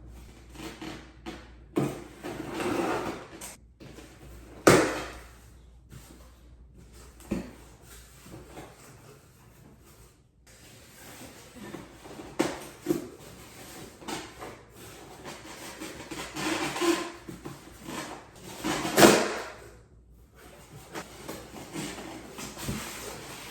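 Cardboard box and packing being opened and handled: irregular rustling and scraping, with two sharp knocks, one about five seconds in and a louder one near the end.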